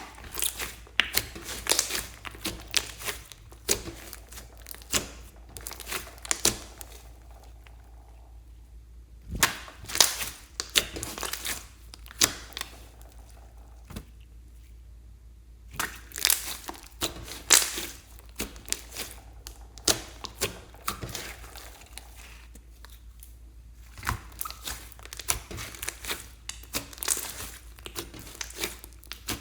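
Slime being squeezed and worked by hand, crackling and popping in dense runs of sharp clicks, in bursts of a few seconds with short pauses between them.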